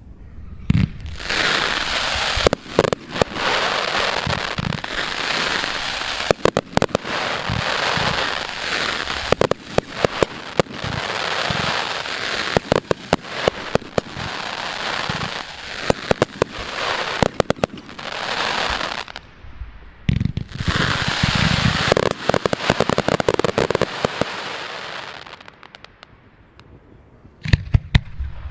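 Professional fireworks display: dense crackling effects sprinkled with many sharp bangs from bursting aerial shells, in two long spells with a brief break in the middle. Near the end comes a short lull, then a few more bangs.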